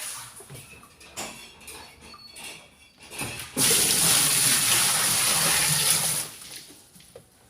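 Water running loudly into a twin-tub washing machine's tub for about two and a half seconds, starting about halfway through and then stopping: the tub being filled to test the newly replaced drain seal for leaks. A few light handling clicks come before it.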